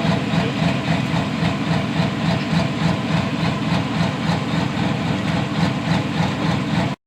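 Turbocharged diesel engine of a 10,000-lb pro stock pulling tractor idling steadily after its pull, with a regular pulsing beat.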